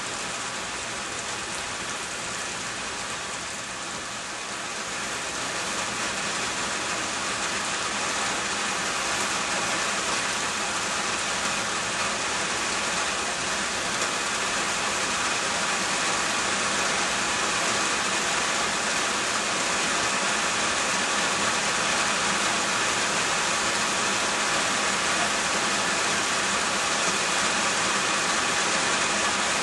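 Steady rain falling, an even hiss that grows louder about five seconds in and then holds.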